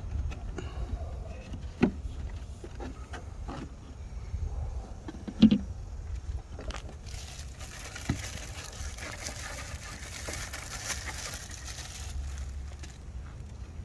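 Hands working on a car's air filter housing: a few sharp plastic clicks and knocks, the loudest about five and a half seconds in, then about six seconds of rustling and crinkling as the filter is handled.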